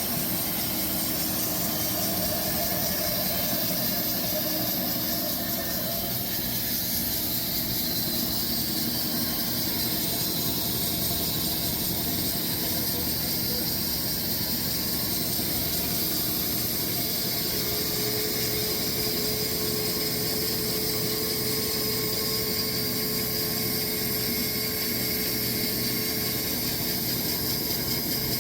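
Sawmill running steadily, its engine and blade noise holding an even level throughout, with a faint steady tone joining about eighteen seconds in.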